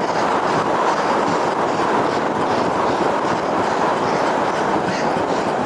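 Cyclocross bike ridden over rough ground: a steady rushing noise of tyres and air with a light, repeating rattle.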